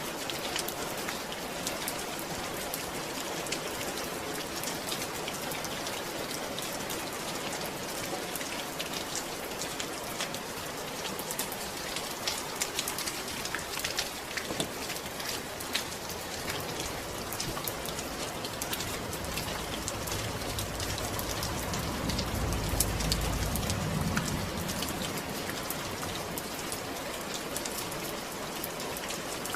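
Steady rain falling, an even hiss full of fine drop ticks. About two-thirds of the way through, a low rumble swells and fades under it.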